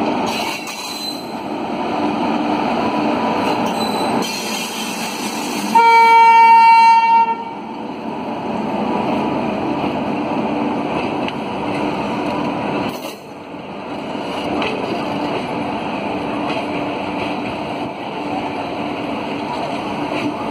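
Passenger train hauled by a WAP-7 electric locomotive passing close by, with a steady noise of wheels on rail and coaches rolling past. About six seconds in comes one horn blast lasting about a second and a half, the loudest sound.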